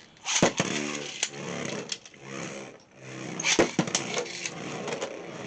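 Beyblade X spinning tops whirring in a stadium, with several sharp plastic clacks as they are launched and strike each other.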